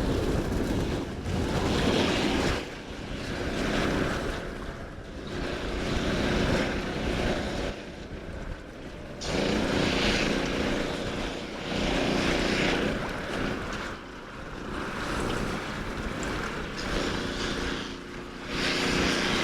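Sea water washing in swells that rise and fall every two to three seconds, with wind buffeting the microphone.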